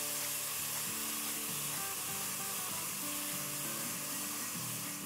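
Chopped onion, garlic and red bell pepper sizzling steadily as they sauté in hot oil in a pot, under soft background music.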